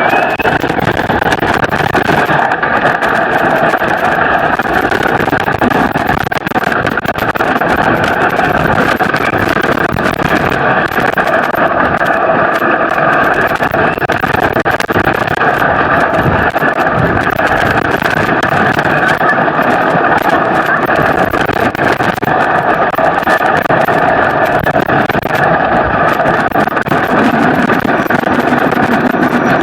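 Wooden roller coaster train running along its track: a loud, steady noise of the train and track that holds without a break.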